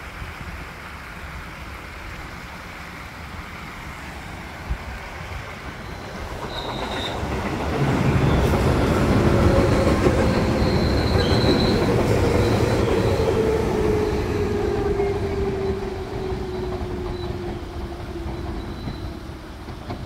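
A JR Nara Line electric train passing close below and running into the short tunnel under the raised river: its rumble builds about six seconds in, is loudest for the next several seconds, then eases off. A whine falls steadily in pitch as it goes, with a couple of brief high wheel squeals.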